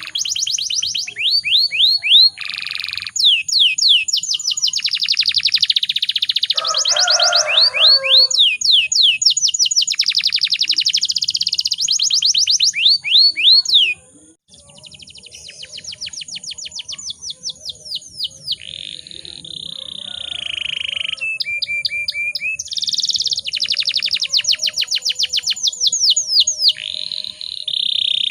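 Domestic canary singing a long, loud song of fast rolling trills and held whistled notes. The song breaks off briefly about halfway through, then resumes.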